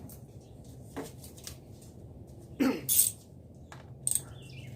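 A few short, scattered knocks and clicks from tools and parts being handled, the loudest about two-thirds of the way through, over a faint steady hum.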